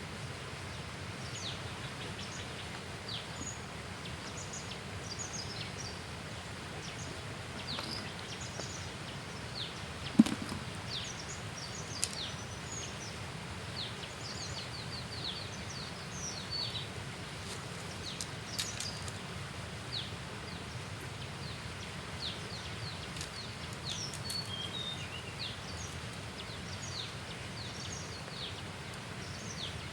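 Birds calling in many short, quick, high chirps over a steady low background hum of outdoor noise. A sharp knock stands out about ten seconds in, with a smaller one about two seconds later.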